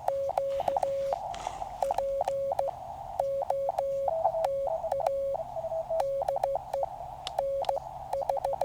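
Morse code being sent on a QCX mini transceiver: its single-pitch sidetone keyed in dots and dashes with a click at each element, and the receiver's hiss coming back in the gaps. A fainter Morse signal at a slightly higher pitch comes through briefly about halfway through.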